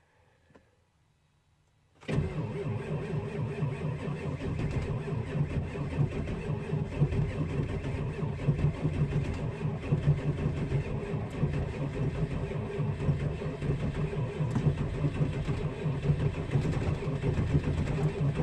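Ford 7.3 Powerstroke turbodiesel V8 on stock exhaust starting from cold: after a faint click, it fires about two seconds in and settles straight into a steady, uneven-peaked cold idle.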